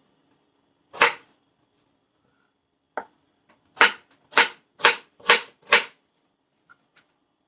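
A kitchen knife dicing raw peeled potato, its blade knocking on the cutting board. Single chops about one and three seconds in, then a run of five chops at about two a second.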